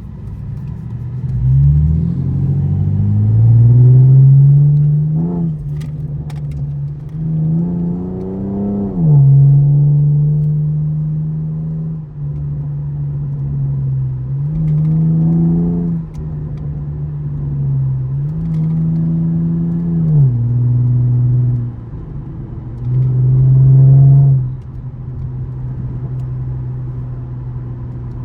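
2013 Camaro LS 3.6-litre V6 pulling hard through the gears of its six-speed in manual mode: engine pitch climbs, then drops sharply at upshifts about five and nine seconds in. Later it holds a steadier note, with pitch stepping up and back down twice, and near the end a loud burst of revs cuts off abruptly.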